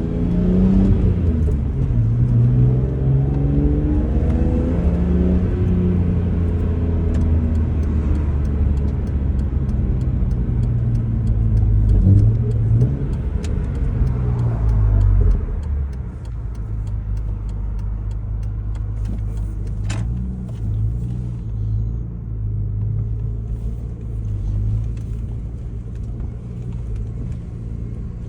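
2004 BMW M3's straight-six engine and exhaust on the move, the pitch rising and falling with the revs for about fifteen seconds, then dropping to a quieter, steadier drone.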